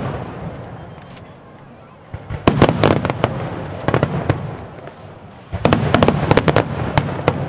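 Aerial fireworks shells bursting in two volleys, one about two seconds in and one about five and a half seconds in. Each volley is a run of sharp bangs and crackles that echo and fade.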